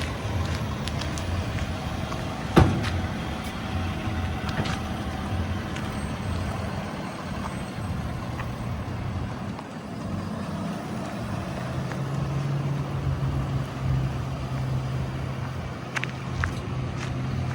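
Heavy diesel construction equipment running steadily at a paving site, with one sharp metallic clank about two and a half seconds in and a steadier engine hum setting in about halfway through.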